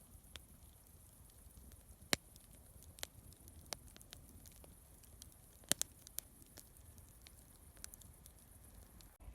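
Campfire crackling: burning wood giving off sparse, irregular sharp pops over a low, steady hiss.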